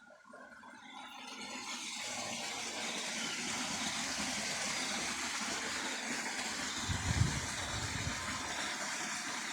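Rushing water, fading in over the first two seconds and then a steady even rush, with a brief low rumble about seven seconds in.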